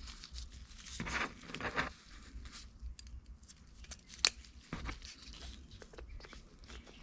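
Small carburetor being handled and taken apart for cleaning: irregular rustling and small clicks of parts being moved, with one sharp click about four seconds in.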